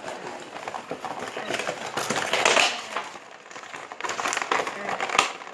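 Cardboard and plastic packaging of a toy die-cast race car being handled and torn open, a dense run of crinkling, crackling and sharp clicks, loudest about two seconds in.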